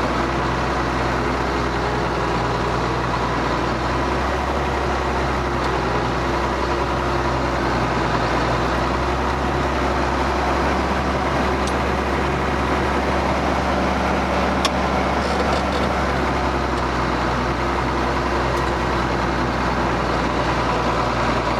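Ford TW tractor's diesel engine running steadily under load while pulling a plough.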